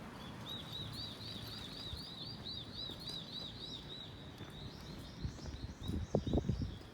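A small bird singing a fast run of repeated high, arched notes, about four a second, for about three seconds, then a fainter second run. A few low thumps come near the end over a steady outdoor background.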